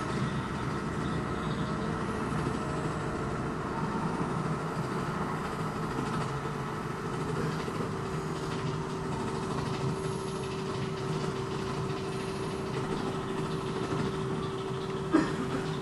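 Steady low mechanical rumble, with a steady hum coming in about halfway through and a single sharp knock near the end.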